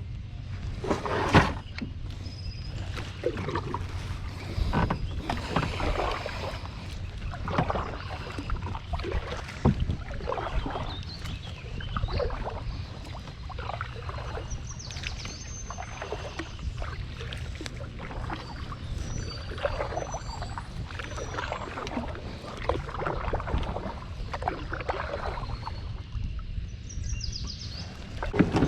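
Water splashing and swishing around a kayak, in surges every second or two over a steady low rumble.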